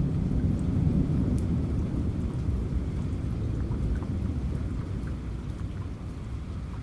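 Rolling thunder rumbling low, loudest in the first couple of seconds and then slowly fading, over steady rain with scattered drop ticks.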